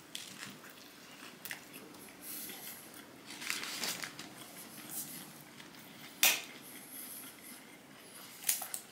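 Close-miked chewing of a bite of a turkey and lettuce wrap, soft and crunchy, with faint crinkling and a sharp click about six seconds in.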